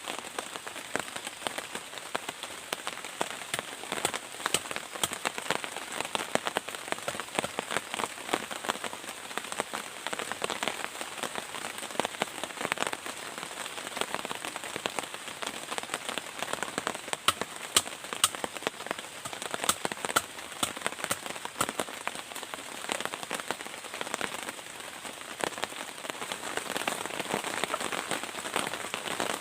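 Steady rain, a dense patter of many drops striking a surface.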